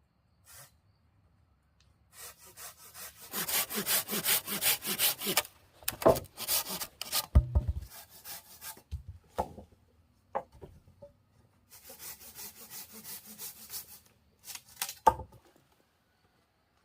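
A hand saw cutting through wood in runs of quick back-and-forth strokes, about three a second. A couple of dull knocks of wood fall between the runs.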